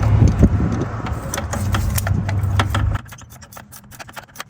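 Ratchet wrench clicking in quick, repeated strokes as a spark plug is tightened. A steady low rumble underneath cuts off suddenly about three seconds in.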